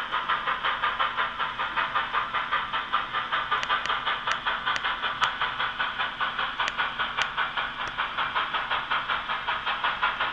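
Sn2-scale model Shay locomotive running along the track, a steady rhythmic pulsing of about four or five beats a second, with a few sharp clicks scattered through it.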